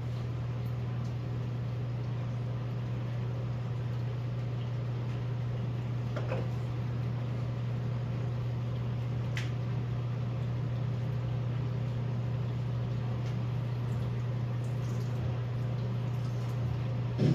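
A steady low mechanical hum, with two faint clicks about six and nine seconds in.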